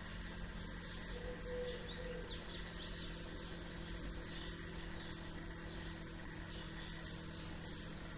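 Small birds chirping faintly and intermittently, with a low two-part call once about a second in, over a steady low hum.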